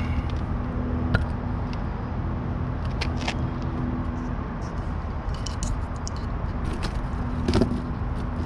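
Steady low mechanical hum from a running machine, with a few sharp clicks and taps of tools and parts being handled.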